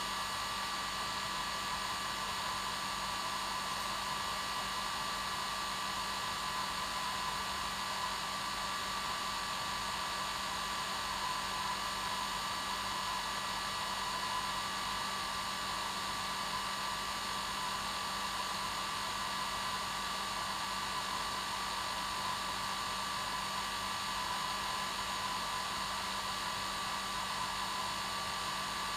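Hair dryer running steadily on its normal setting: an even whoosh of blown air with a steady whine and a low hum, unchanging throughout.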